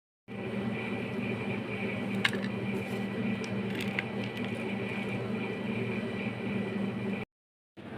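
A steady hum and rushing noise with two sharp clicks, about two and four seconds in. The sound cuts out briefly at the start and again near the end.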